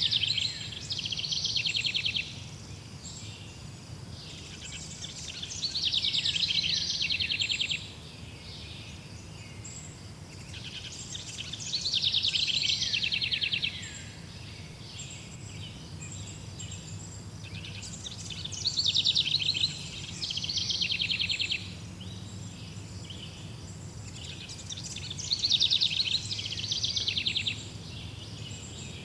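A songbird singing a long, complex phrase of fast trills and chirps, repeated five times at gaps of about six or seven seconds, over a steady low background rumble.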